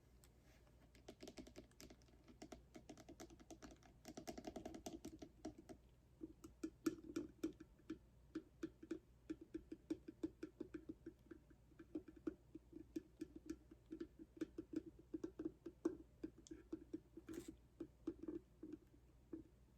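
Fingertips tapping quickly and lightly on a cardboard box, several taps a second in a steady run, with softer, denser tapping in the first few seconds.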